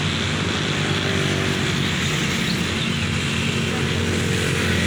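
A vehicle engine running steadily with a low, even hum, over road noise.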